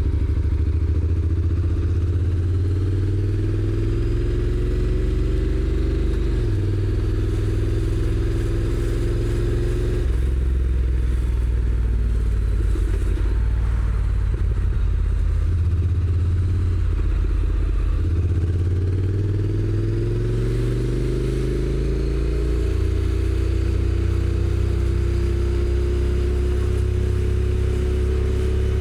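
Stock-exhaust Honda NC750X DCT's parallel-twin engine pulling under way, heard from the rider's seat. Its pitch rises steadily twice, over the first ten seconds or so and again in the last ten, dropping back after each climb.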